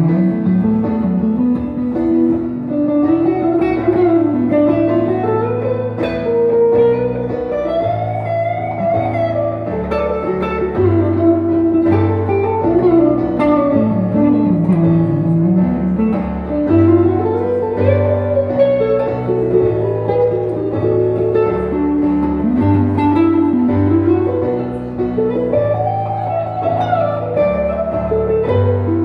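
Instrumental break of a live song: a guitar plays a melodic lead with sliding notes over a steady low bass line.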